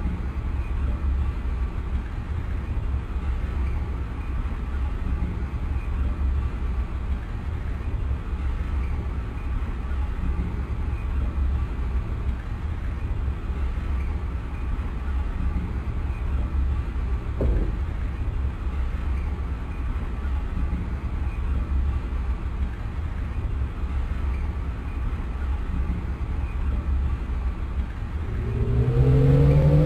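Inside a Lisbon Metro ML90 train: a steady low rumble with a single knock partway through. Near the end the electric traction drive starts up with a rising whine as the train accelerates.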